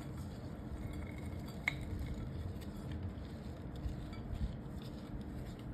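Bar soap being scraped and shredded with a metal blade, soft scratches and small crunches, with one sharp metallic clink about two seconds in.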